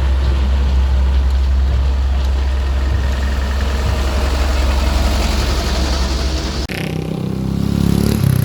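Vehicle engine noise: a steady low rumble that cuts off abruptly about two-thirds of the way in, followed by another engine rising in pitch as it revs.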